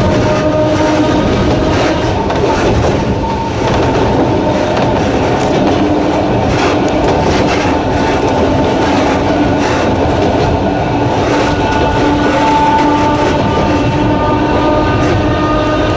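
Sangi Railway Hokusei Line narrow-gauge electric train running at a steady speed. Its nose-suspended traction motors give a steady multi-toned whine over the rumble of wheels on the rails, with a few sharp clicks from the track.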